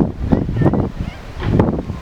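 Strong wind buffeting the microphone in irregular gusts, with rustling.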